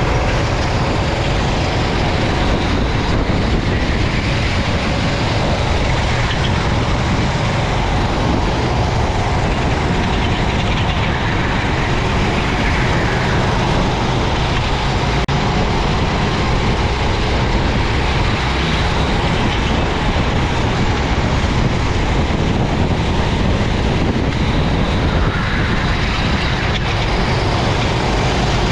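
Racing go-kart engine running continuously at race pace, heard from on board the kart, under a dense, steady rush of noise.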